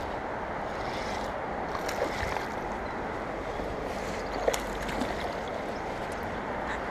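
Steady rush of flowing creek water, with a few faint clicks in the middle.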